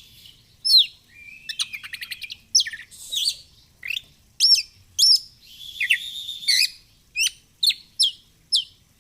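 Oriental magpie-robin (kacer) singing a fast, varied song. Sharp sweeping whistles alternate with rapid trills and buzzy notes in short phrases with brief pauses between them.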